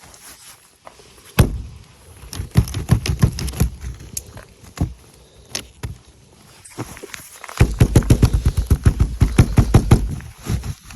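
Ice being chipped and scraped off a truck in quick, hard strokes, several a second, in two runs: one starting about a second and a half in and one in the second half, the second one louder.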